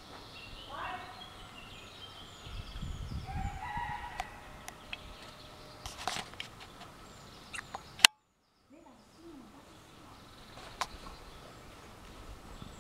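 A bird's drawn-out calls, two short cries in the first few seconds like a rooster crowing, over faint outdoor background. The sound drops out abruptly for about a second just after eight seconds in.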